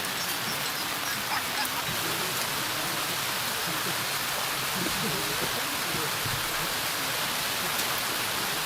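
Steady, even rushing noise like flowing water, with faint low voices murmuring under it.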